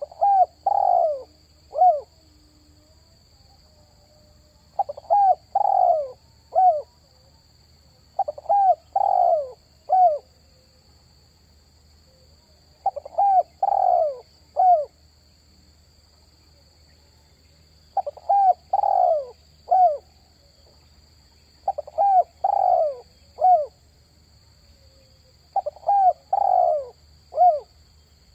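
Spotted dove (tekukur) cooing: seven repeated phrases, each a few short, falling coo notes ending on a brief final coo, a few seconds apart. This is the call used to lure other doves. A faint steady low hum runs underneath.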